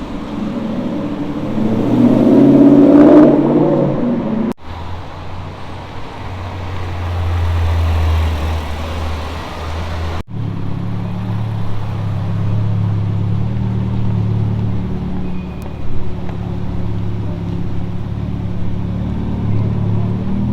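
Supercar engines in three short clips. The first is a loud acceleration that peaks a few seconds in; the next two are low, steady engine running or idling.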